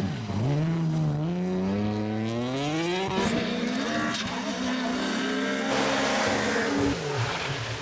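A rally car's engine accelerating hard. Its pitch climbs steadily for about three seconds, breaks at a gear change, then holds high and fairly steady before falling away near the end.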